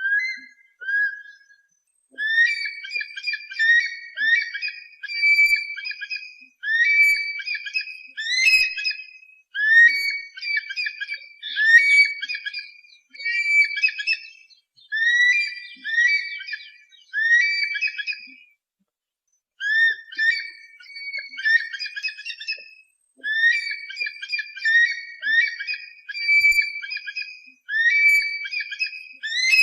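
Raptor (hawk/eagle) calls, high and rapidly repeated in runs of quick sharp notes, with one pause of about a second a little past the middle.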